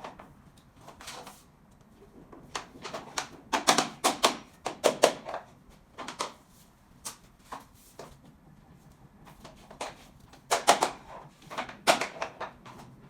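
Sharp tapping knocks in short quick runs, several strikes at a time with pauses between, as SPC click-lock stone-plastic floor planks are knocked into place.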